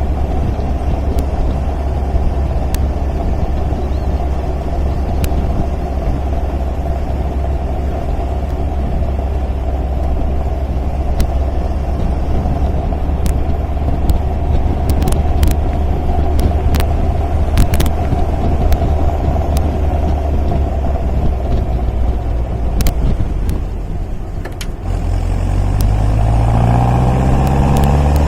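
MGA sports car's four-cylinder engine running steadily on the road, a low drone with faint clicks over it. About three-quarters of the way through, the engine eases off briefly, then climbs in pitch as it accelerates again.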